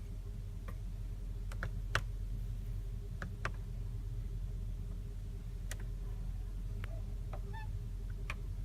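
Scattered soft clicks, about a dozen spread irregularly, of interior switches being pressed in a car cabin, over a steady low hum.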